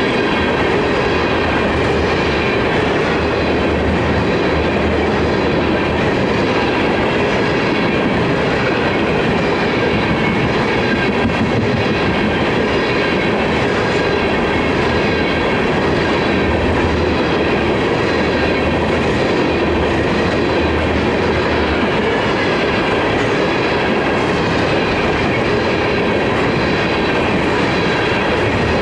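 Freight train of tank cars rolling past at close range: steady rumble of steel wheels on rail with clickety-clack over the rail joints.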